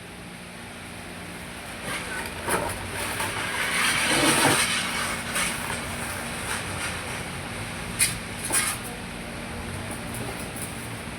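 Vehicle noise that swells to a peak about four seconds in and then eases off, over a steady low hum, with two sharp knocks close together later on.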